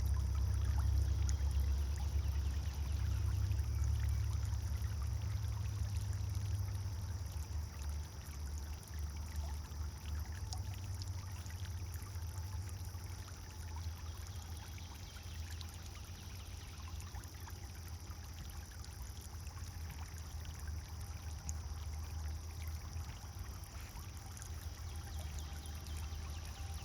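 Pond fountain splashing and pouring steadily into the water. A low rumble underneath is strongest in the first several seconds, then eases.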